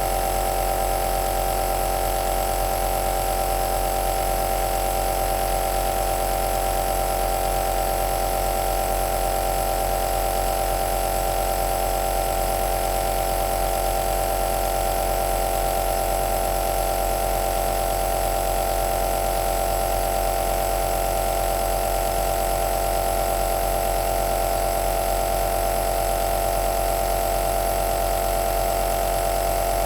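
Compressor nebulizer (aerosol machine) running steadily: a constant hum with a strong mid-pitched tone over a low hum, with no change in speed or level.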